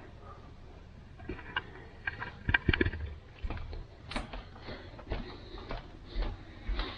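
Footsteps on a floor, about two a second from the middle on, with scattered knocks and rustles of handling.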